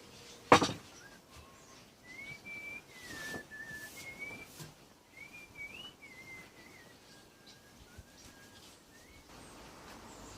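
A person whistling a slow tune, a string of held and gliding notes, after one sharp click about half a second in.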